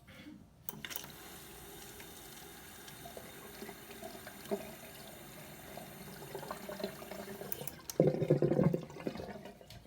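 Water running down a kitchen sink drain, then a loud gurgle from the drain about eight seconds in. The gurgling is a sign that the drain trap and hose under the sink are partly clogged.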